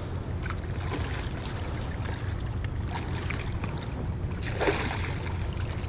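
Steady low drone of a boat or ship engine on the river, with faint scattered clicks and a short rushing burst about four and a half seconds in.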